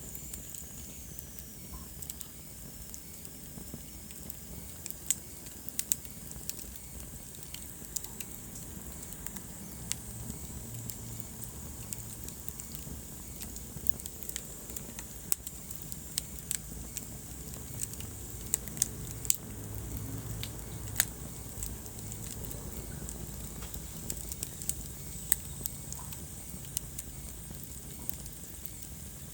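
Wood fire in a fireplace crackling, with irregular sharp pops and snaps over the low, steady rumble of the burning logs.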